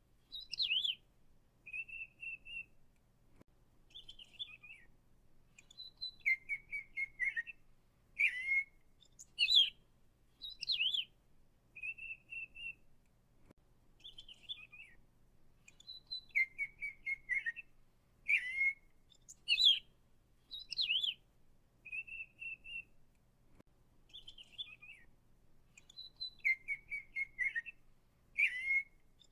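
A songbird singing: short whistled notes, quick trills and chirps. The same sequence of phrases repeats almost identically about every ten seconds.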